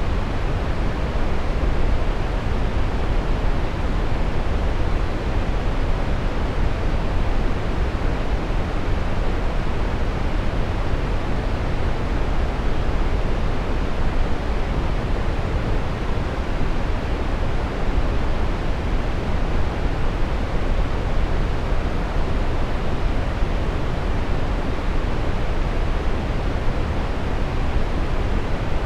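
Steady brown noise: an even, unchanging hiss weighted toward the low end, a deep rumble fading off in the highs.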